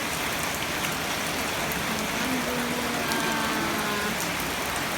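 Steady downpour of rain.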